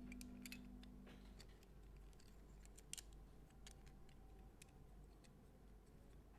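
Faint, scattered light clicks and ticks, irregularly spaced, the sharpest about three seconds in, as the tail of background music fades out about a second in.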